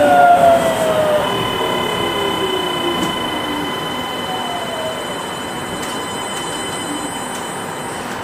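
Kanazawa Seaside Line 2000 series rubber-tyred automated guideway train running, its motor whine falling steadily in pitch as the train slows. The whine fades to a few steady high tones over the running noise.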